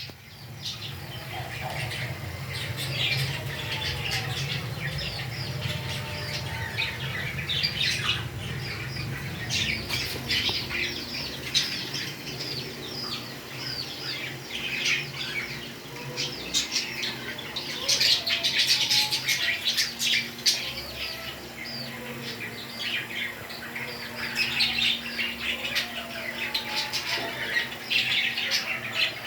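Pet parrots chirping and squawking without pause, many short high calls overlapping, busiest in the second half.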